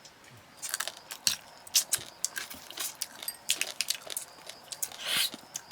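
Cooked field crab shells being bitten and cracked apart while eating: a quick, irregular run of sharp cracks and crunches.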